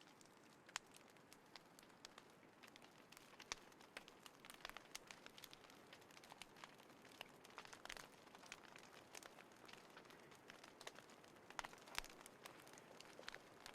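Small wood fire crackling: faint, irregular sharp ticks and snaps over a soft hiss.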